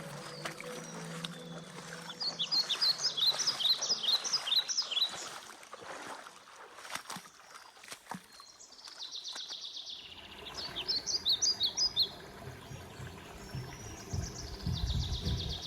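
A small songbird singing in quick phrases of rapid high chirps, heard three times, once early, once in the middle and once near the end, over a low outdoor background noise.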